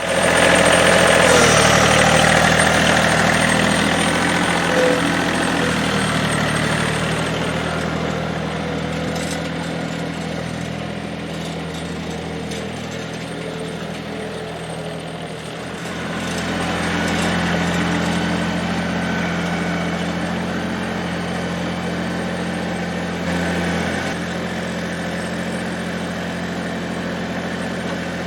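Massey Ferguson GC2300 sub-compact tractor's diesel engine running steadily, getting louder for a few seconds about sixteen seconds in.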